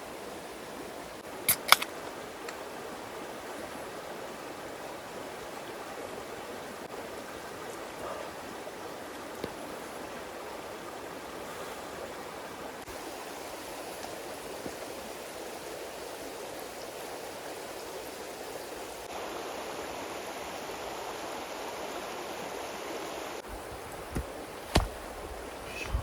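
Steady rush of a flowing stream, with a few sharp clicks about two seconds in and again near the end.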